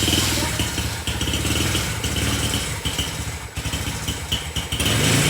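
Small motorbike engine idling with a rapid, even putter, getting louder near the end.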